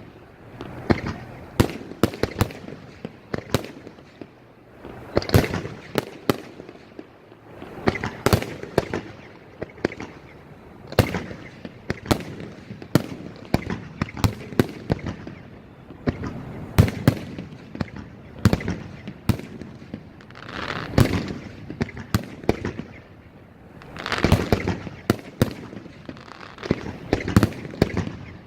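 Aerial fireworks going off in a rapid, continuous barrage: many sharp bangs, often several in a second, in clusters every few seconds.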